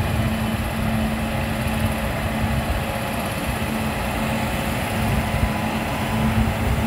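Indian Railways WAP-7 electric locomotive passing slowly with its passenger coaches: a steady low electric hum over the even rumble of wheels on rail.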